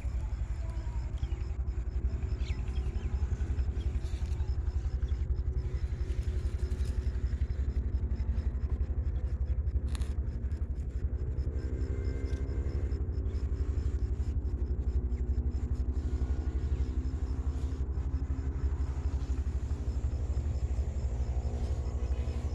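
A motor vehicle's engine running with a steady low rumble; its pitch wavers and shifts partway through.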